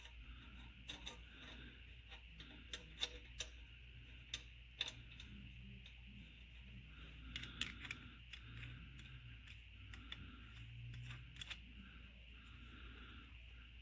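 Faint, irregular light clicks and taps, a few sharper ones about three, five and seven and a half seconds in, over a low steady hum.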